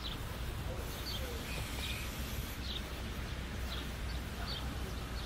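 Birds chirping, short high calls repeated about once a second over a low steady rumble.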